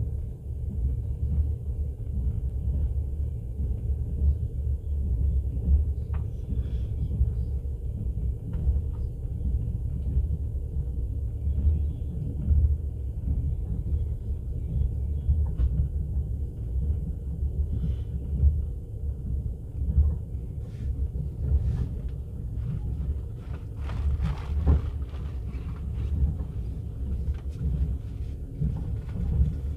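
Passenger train running, heard from inside the carriage: a steady low rumble with faint scattered clicks and knocks.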